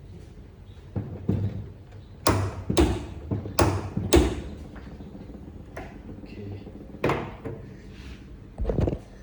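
Sharp metal knocks and clicks from a torque wrench and socket being worked on a common-rail injector nut: four in quick succession about two to four seconds in, then two more near the end.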